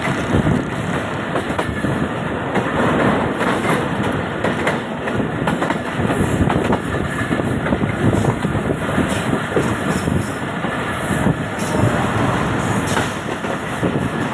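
Train running along the track, heard from on board: a steady loud rushing noise with frequent irregular knocks from the wheels on the rails.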